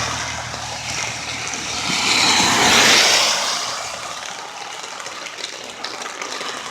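Vehicles passing on a wet road, their tyres hissing: one fades away at the start, and another swells past about three seconds in and fades.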